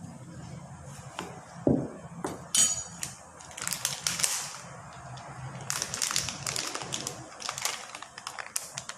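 Kitchen utensil sounds: a dull knock, then a sharp metallic clink that rings briefly, followed by several seconds of irregular clattering and crackling.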